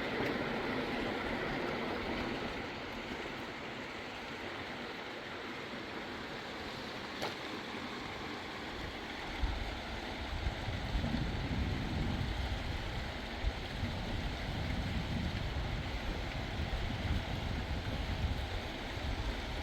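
Steady rush of a fast mountain river. From about halfway through, a lower, uneven rumbling joins it.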